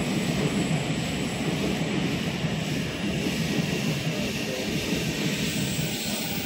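Steady rumbling roar of a train approaching through the tunnel, echoing around an underground railway platform.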